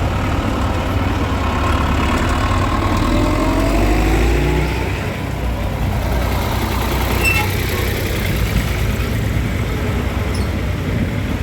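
Tractor engines running steadily, with an engine's pitch gliding up and down a few seconds in; the sound eases a little about halfway.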